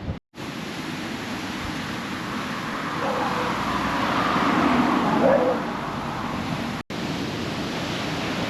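Steady rush of wind and sea surf, swelling a little in the middle, with the sound cutting out completely for a split second twice, near the start and near the end.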